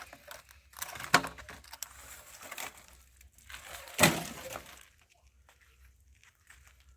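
Breaking and crunching noise of a structure being knocked apart, with two sharp knocks about three seconds apart.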